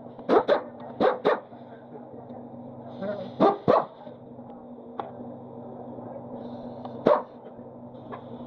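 A dog barking, mostly in quick pairs of short barks with a single bark near the end, over a steady low hum.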